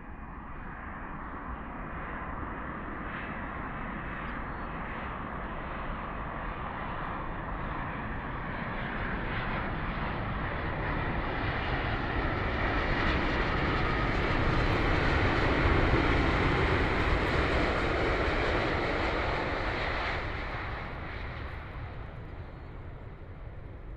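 Jet noise from a Boeing 787-9 Dreamliner's turbofan engines as the airliner passes. It builds steadily to its loudest about two-thirds of the way through, then fades away.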